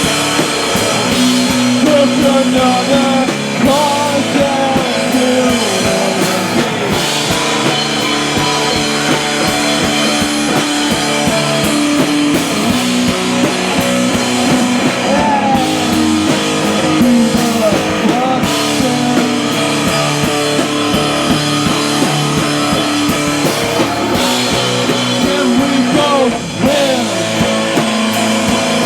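Rock band playing live with distorted electric guitar and drum kit, loud and continuous, with some singing.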